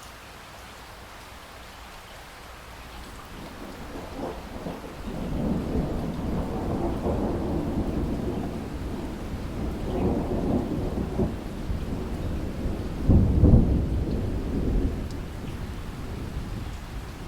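Steady rain with a long roll of thunder that swells in from about three seconds in, rumbles on in waves and is loudest about two-thirds of the way through, then dies away.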